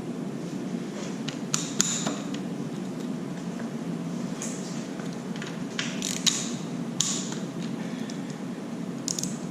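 Hand tools working the oil pump bolts on a 2JZ-GTE engine: scattered, irregular metallic clicks and knocks over a steady low hum.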